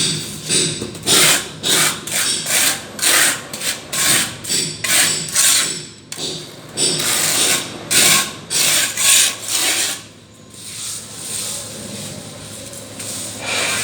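A hand plastering tool scraping and spreading cement plaster across a wall in repeated strokes, about two a second. The strokes give way to softer, quieter rubbing about ten seconds in.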